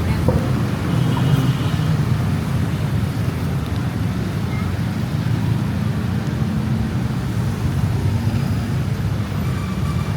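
Steady city road traffic noise, an even low rumble with no distinct events.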